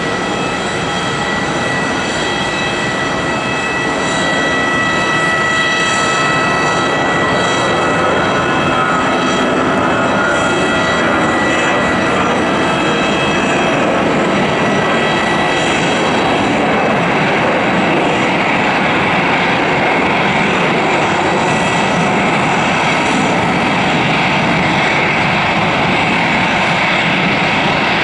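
Airbus A320's twin turbofan engines at taxi power: a steady jet whine with several high held tones over a broad rush, growing louder about four seconds in.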